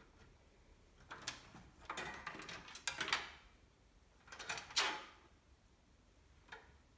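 Clicks, rattles and scrapes of hard parts being handled: a run of them from about a second in to three and a half seconds, and a shorter, louder burst near five seconds.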